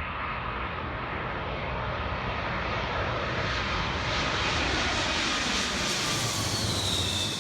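Boeing 747 on landing approach passing low overhead: a loud jet engine roar that builds, with a high engine whine falling in pitch near the end as it goes by.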